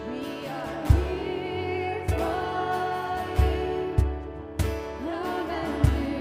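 Live worship song: a band plays held chords with a steady low drum beat, and a singer carries the melody.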